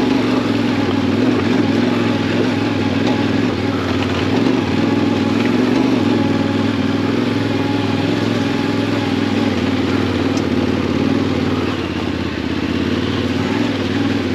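Yamaha Ténéré 700's parallel-twin engine running steadily while the bike is ridden, easing off a little near the end.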